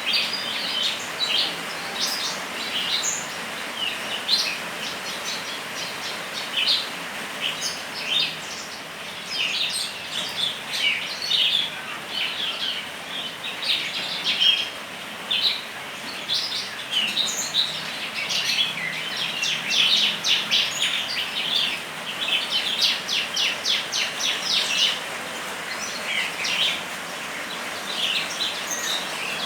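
Small songbirds chirping and singing busily, with quick runs of rapid trilled notes, over a steady hiss of falling rain.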